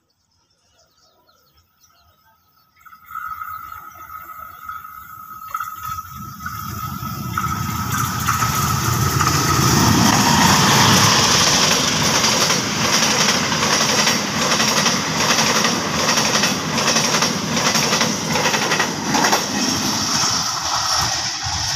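KAI CC203 diesel-electric locomotive hauling a passenger train: a long horn blast sounds about three seconds in, then the locomotive and coaches pass close by, the wheels clacking in a steady rhythm over the rail joints.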